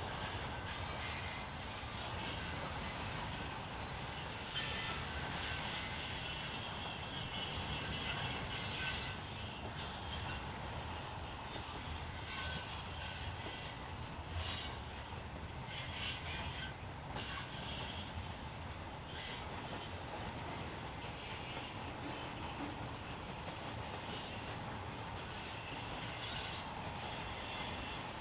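Norfolk Southern train's wheels rolling past with a steady rumble and an on-and-off high-pitched squeal of wheels against rail.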